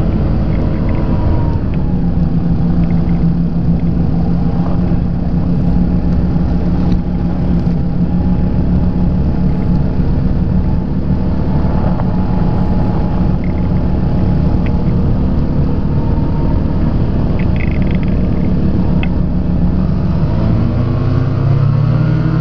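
Rotax two-stroke engine of a Quad City Challenger ultralight running steadily in flight, heard from the open cockpit with wind rush. About twenty seconds in its pitch rises as power is added.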